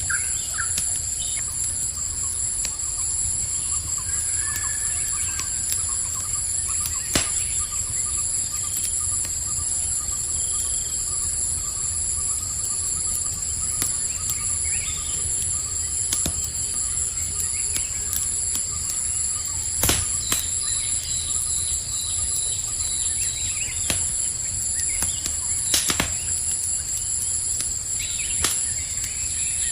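Campfire crackling, with a few sharp pops, over a steady high trilling chorus of crickets and scattered short bird chirps.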